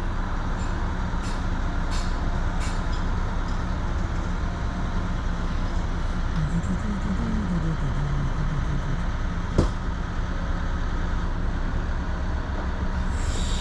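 Steady low mechanical rumble with a few light clicks near the start and one sharp knock about nine and a half seconds in.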